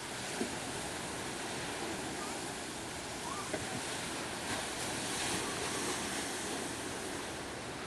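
Ocean surf washing on the shore, a steady rush of water that swells slightly a little past the middle.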